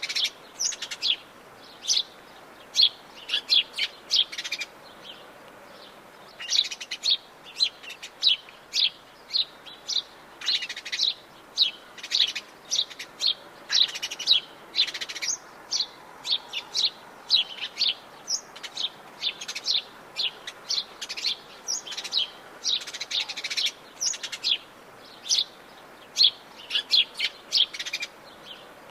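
Several songbirds in Atlantic Forest chirping and calling in quick, short notes, with a brief lull about five seconds in, over a faint steady background.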